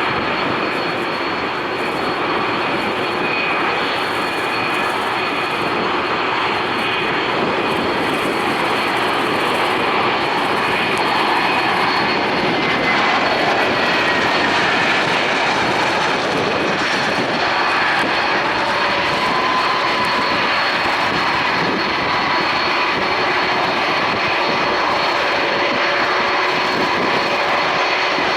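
Airbus A320-232 jet airliner's IAE V2500 turbofan engines running, a loud, steady jet noise with a high whine held throughout.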